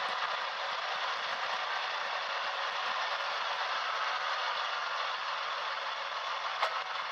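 Steady rushing noise picked up by a recorder strapped to a Toyota Tacoma pickup's axle, with a single sharp click near the end; the squeal under investigation is not yet heard.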